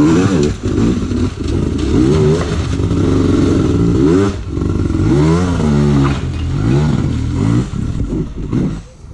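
Dirt bike engine revved up and down in repeated blips and surges, the pitch climbing and falling several times, as a rider works the throttle through a hard enduro section.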